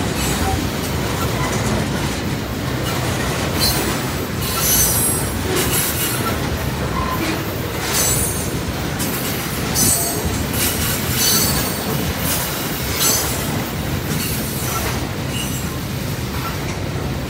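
Freight train of tank cars rolling past: a steady rumble of steel wheels on rail, broken by repeated short, high-pitched wheel squeals.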